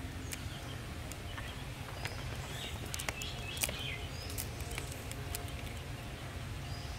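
Small birds chirping in short scattered calls over a steady low rumble, with a few sharp clicks and taps, among them an eggshell being cracked open over a bowl.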